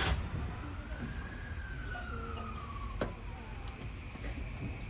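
Tokyu 3020 series commuter train running, a steady low rumble with a single high tone that rises a little and then falls slowly over about three seconds, and a sharp click about three seconds in.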